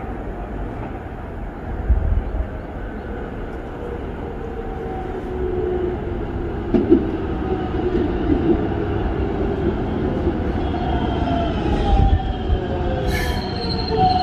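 Keikyu electric train (set 1713) pulling into a station: wheels rumbling on the rails, growing louder as it nears, with a whine that falls slowly in pitch as it slows. Two sharp clacks come near the end.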